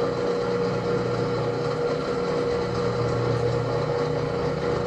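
Electric drive motor of an aircraft wheel holder and bead breaker running steadily to turn the tire. It makes a steady hum with a higher tone held above it.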